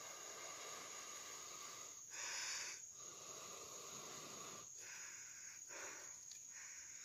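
Faint rasping of bamboo rubbed hard against bamboo in a friction fire-making attempt, with a louder stretch of rubbing about two seconds in.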